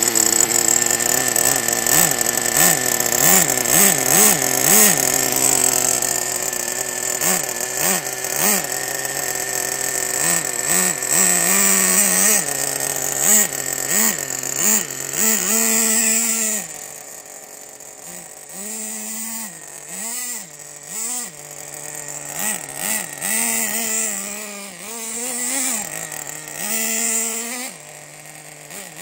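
Small glow-fuel nitro engine of a Team Associated RC10GT2 RC truck revving up and down again and again as the truck is driven. About halfway through it gets quieter, with shorter blips of throttle between lower running.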